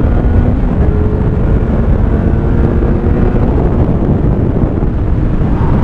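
Kawasaki Z900's inline four-cylinder engine running through an Akrapovic exhaust at a fairly steady engine speed while the bike is ridden, with wind rushing over the rider.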